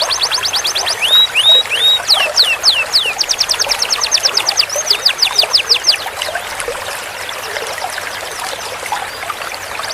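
Canary singing a rapid rolling trill: quickly repeated high notes broken by a few rising and falling whistles, stopping about six seconds in and starting again just at the end, over a steady background hiss.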